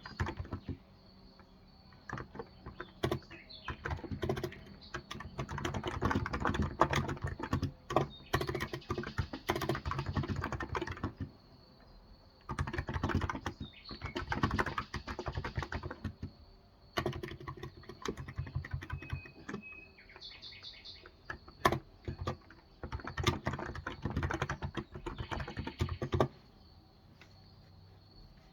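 Typing on a Cox Endeavor electrostatic-capacitive tenkeyless keyboard with 35 g keys, in bursts of rapid keystrokes broken by short pauses.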